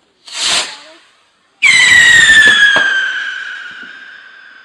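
A brief whoosh of a firework going off, then about one and a half seconds in a loud shrill whistling firework starts, its pitch sliding slowly down as it fades. A single sharp crack sounds partway through.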